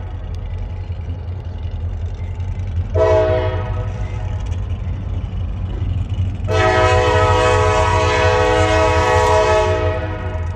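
EMD SD40-2 and SD40-T diesel locomotives sounding a multi-chime air horn, one short blast about three seconds in, then a long blast from about six and a half seconds until near the end: the closing short and long of a grade-crossing signal. The diesel engines run with a steady low rumble underneath.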